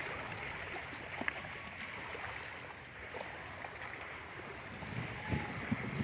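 Wind and lake waves washing against the shore, a steady rushing sound with a few faint knocks.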